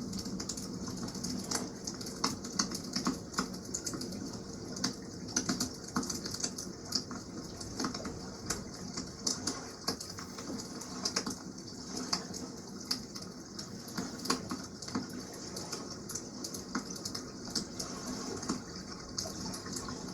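Campfire crackling, with many irregular sharp pops and snaps over a steady wash of water.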